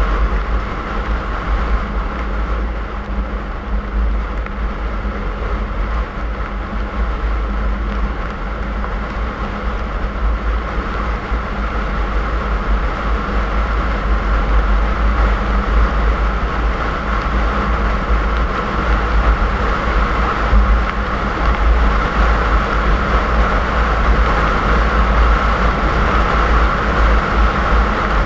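Car driving at steady speed, heard from inside the cabin: a continuous low rumble of engine and tyres on the road with a steady hiss over it.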